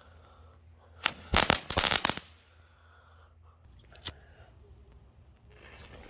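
Crackling ball firework going off: a quick cluster of sharp cracks about a second in, lasting about a second, then one more lone crack a couple of seconds later.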